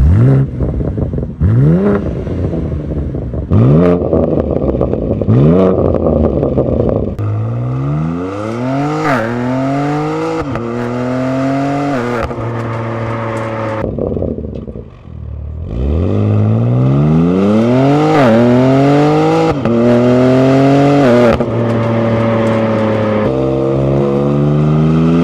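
Exhaust of a BMW G-series M car's twin-turbo straight-six revving: a few short throttle blips, then two hard pulls through the gears, each upshift dropping the pitch sharply before it climbs again.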